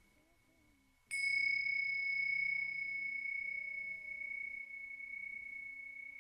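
A small metal chime or bell struck once about a second in, giving a single clear high ringing tone that fades slowly, with a faint low melodic line underneath.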